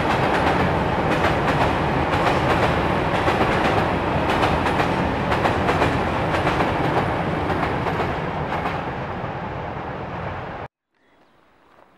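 A freight train of open gondola wagons rolling past, a loud rumble of wheels on rail with rapid clicking over the rail joints. It eases off as the end of the train goes by, then cuts off abruptly near the end.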